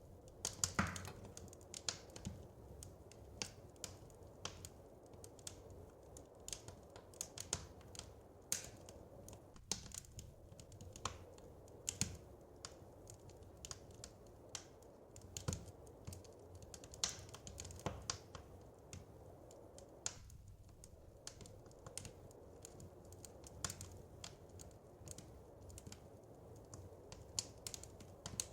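Wood fire crackling, with sharp pops at irregular intervals, a few of them louder, over a soft steady hiss.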